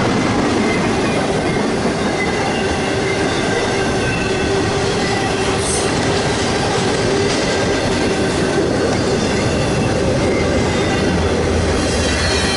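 CSX intermodal freight train rolling past at close range: a loud, steady rumble of wheels on rail, with faint high wheel-squeal tones over it.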